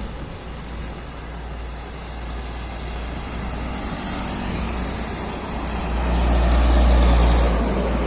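Heavy trucks passing on a road: a steady low engine and tyre rumble that swells about six seconds in as a truck goes by close.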